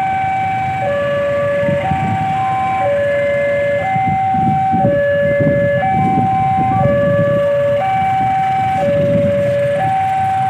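Railway level-crossing warning alarm sounding a steady two-tone signal, a higher and a lower tone alternating about once a second each, over a low rumble. The alarm signals that a train is approaching the crossing.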